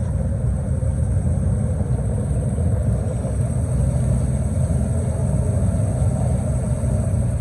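Canal tour boat under way, with a steady low rumble.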